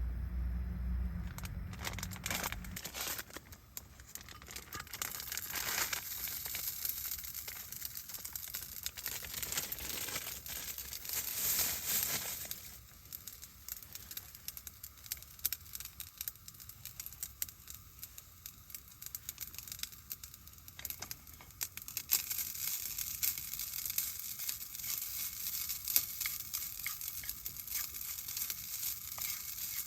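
Plastic crinkling and rustling with many scattered light clicks and taps.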